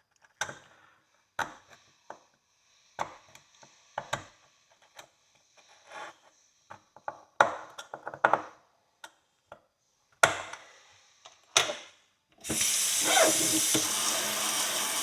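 A hand tool scraping and knocking against an old iron horseshoe, working dirt out of its crease in short, scattered strokes. Near the end a kitchen faucet is turned on and runs steadily into the sink.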